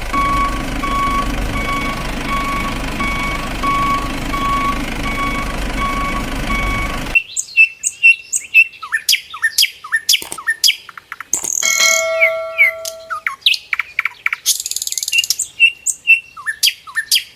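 A truck engine runs steadily under a repeating reversing beeper, about one and a half beeps a second, and cuts off suddenly about seven seconds in. Birds chirping follow, with quick clicks and short whistles.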